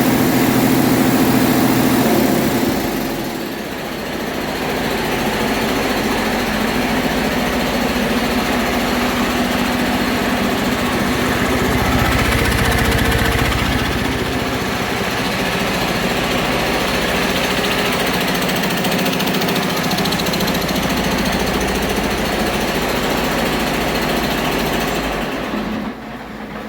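A 2021 Detroit Diesel DD15 inline-six truck diesel engine running on a test run. It changes note and dips in level about three seconds in, then runs steadily, dropping off near the end.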